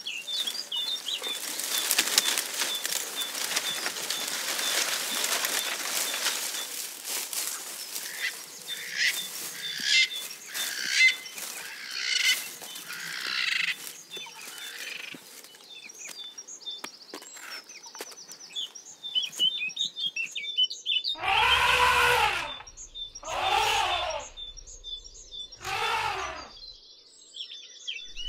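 Savanna wildlife sound effects: birds chirping throughout over a rushing noise in the first several seconds, then three loud animal calls near the end, each arching up and down in pitch.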